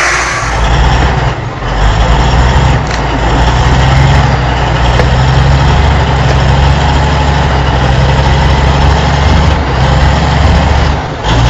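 Heavy truck engine running steadily with a low, even note. The sound breaks briefly about a second and a half in and cuts off shortly before the end.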